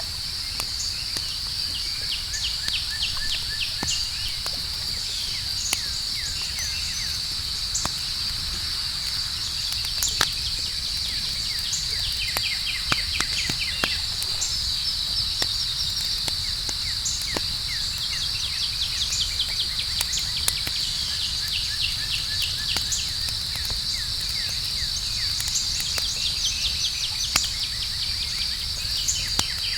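Outdoor campfire crackling, with scattered sharp pops, under a steady high chorus of crickets and other night insects. Bursts of rapid chirping trills come and go over the insect chorus.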